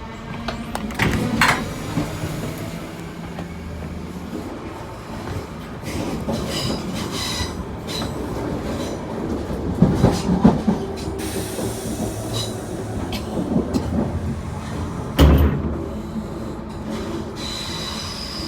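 Queensland Rail IMU 100 electric multiple unit running, heard from inside the carriage: a steady rumble of wheels on track, broken by clunks, with the loudest knock about fifteen seconds in, and brief high wheel squeal.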